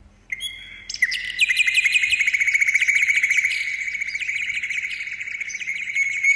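A bird singing a fast, continuous trill of high chirps, starting a second or so in.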